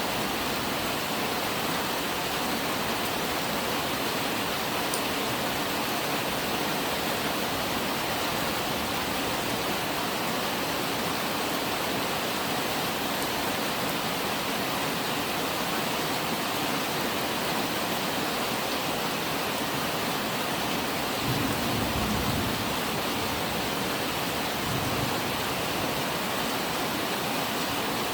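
Steady rain falling in an even hiss, with a brief low rumble about three quarters of the way through.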